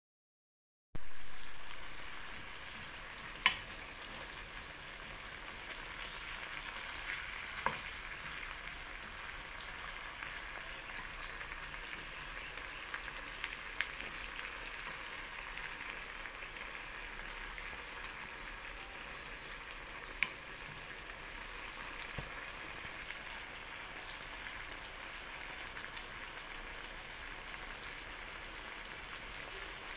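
Chicken pieces and sliced beef loaf sizzling in oil in a pan, a steady hiss that starts about a second in. A few sharp knocks of a wooden spatula against the pan stand out, the loudest a few seconds in.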